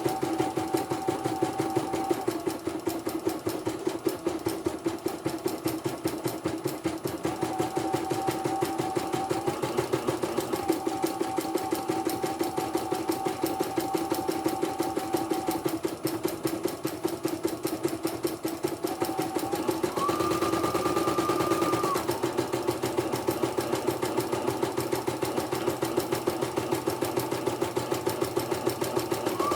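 Portable computerized embroidery machine stitching, its needle strokes in a fast, even rhythm. A thin motor whine comes and goes as the hoop moves, and steps up in pitch about two-thirds of the way through.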